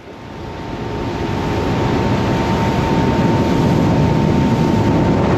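Motorboat getting under way. The engine and the rush of water and wind build over about two seconds, then run loud and steady with a faint steady whine.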